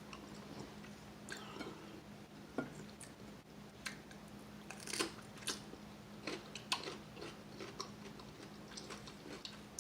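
Close-up chewing of crispy fried chicken wings: irregular, scattered crunches and small clicks, with a faint steady low hum underneath.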